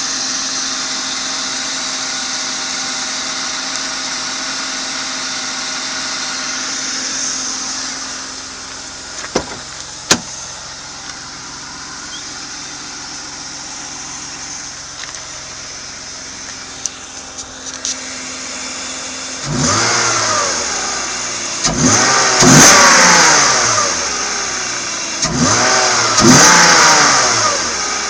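BMW 323i coupe's 2.5-litre straight-six idling steadily, with two sharp clicks about nine and ten seconds in. In the last third it is revved several times, each blip rising and falling back to idle.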